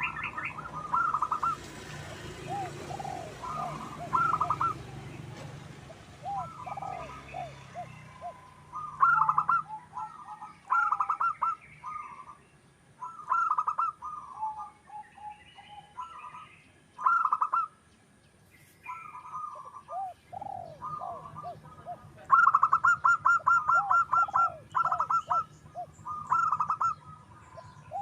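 Zebra dove (perkutut) cooing: phrases of quick, rapidly repeated notes alternating with softer, lower rolling coos, broken by short pauses. There is a long fast run of notes near the end.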